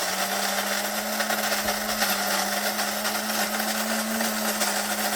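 Electric coffee grinder running steadily, grinding coffee beans, with a steady motor whine under a loud grinding hiss.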